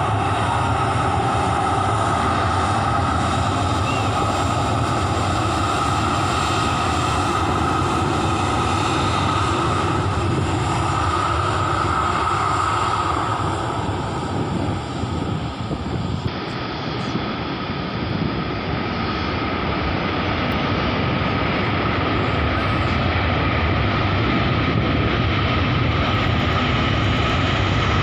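Jet airliner engines running with a steady rumble and a high whine held throughout, dipping briefly in loudness about halfway through.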